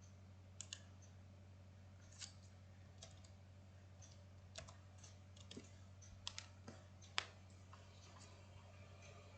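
Scattered clicks from a computer mouse and keyboard while drafting, some in quick pairs, over a faint steady low hum.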